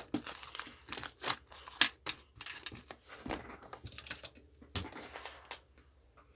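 Crinkling and rustling with many quick sharp clicks, like material being handled, stopping about five and a half seconds in.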